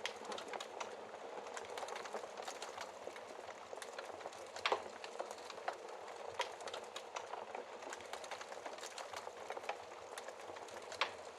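Fireplace fire crackling: a steady low hiss full of small quick snaps, with a sharper pop about halfway through and another near the end.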